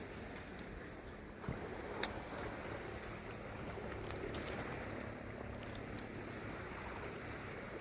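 Low, steady wash of water and wind around a small boat at sea, with a sharp click about two seconds in.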